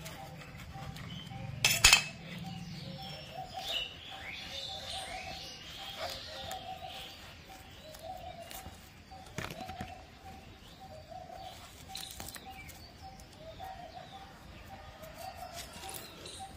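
Birds calling: repeated chirps and a lower call that comes back again and again. A sharp knock about two seconds in is the loudest sound, with a few fainter clicks later.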